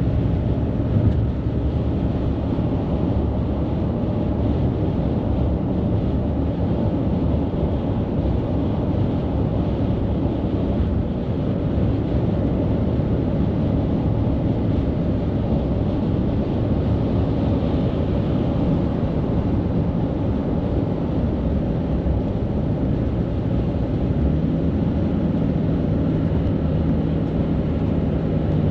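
Steady highway traffic of heavy trucks: engines and tyres running past. A low engine drone comes in near the end.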